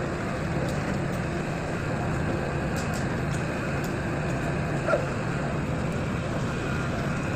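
Steady drone of a hydraulic static pile driver's engine and hydraulic power pack running at a constant pitch, with a short sharp sound about five seconds in.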